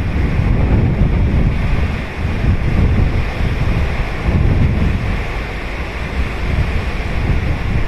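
Ocean surf breaking and washing ashore in a steady rolling wash, with wind rumbling on the microphone.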